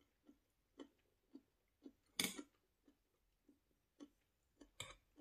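Close-miked chewing of food at about two chews a second, with two louder sharp clicks, one a little past two seconds in and one near the end.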